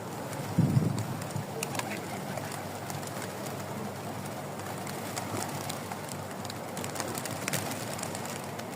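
Pigeons cooing, with a louder low sound just under a second in, over a steady outdoor background.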